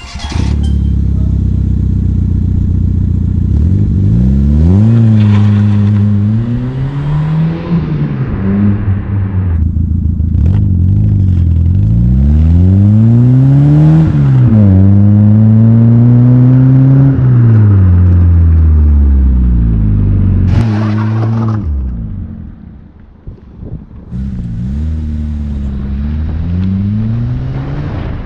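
Fiat Seicento's 1.1 four-cylinder engine revved repeatedly through its exhaust. Pitch rises and falls in several sweeps and is held high for a few seconds about halfway through. After a brief drop it settles to a lower idle with a few smaller blips near the end.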